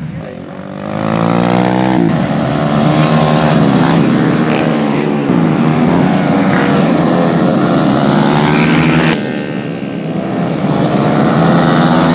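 Several racing motorcycle engines revving at high pitch as the bikes pass, their pitches rising and falling and crossing each other. The sound swells about a second in, drops briefly near nine seconds, then climbs again as more bikes come through.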